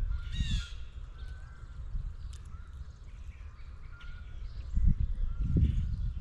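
A blue jay gives one harsh call about half a second in, with faint chirps of other small birds behind it. Low, uneven rumbling noise runs underneath and grows louder near the end.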